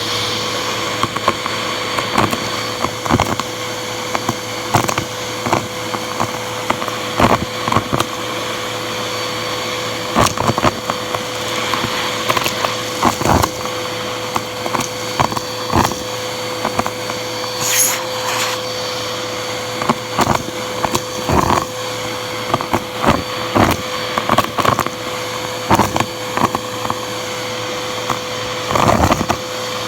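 Bissell vacuum cleaner running steadily with a constant whine while its hose sucks up debris, bits of mess clicking and rattling irregularly as they rush through the hose.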